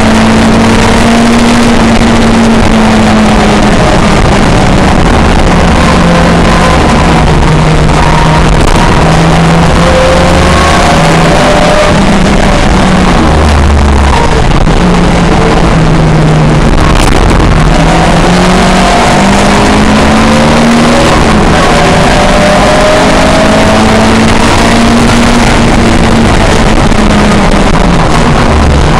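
Race car engine of a pre-1966 touring car at full throttle, its note climbing and dropping back again and again with gear changes and lifts, over a loud steady rush of noise.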